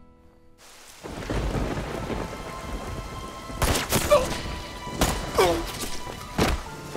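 Heavy rain pouring, with low rumbling thunder and film-score music holding sustained notes; the rain sets in about half a second in. In the second half three sharp cracks come a little over a second apart, the first two followed by falling tones.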